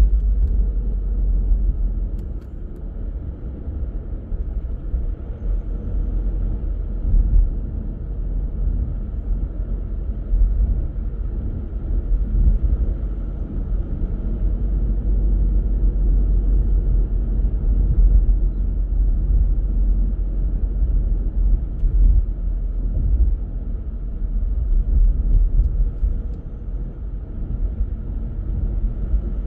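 Car driving along a road: a steady low rumble of tyre, engine and road noise that rises and falls a little in loudness.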